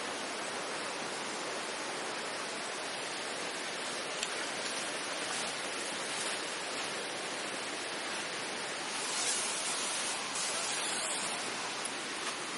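Steady rushing of running water, with a few light ticks and a slightly louder rustle about nine to eleven seconds in.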